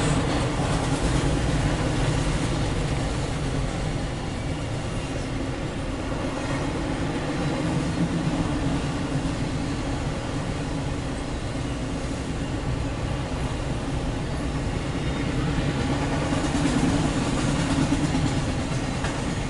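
Empty autorack cars of a CSX freight train rolling past, a steady noise of wheels running on the rails that holds at an even level throughout.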